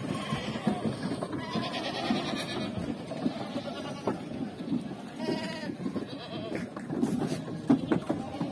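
Goats and sheep bleating, several calls standing out over a constant jumble of animal noise.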